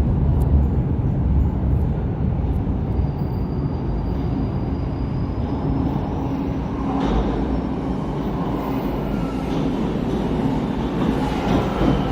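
Toronto subway train running through the station: a steady low rumble of wheels on rails with a motor hum.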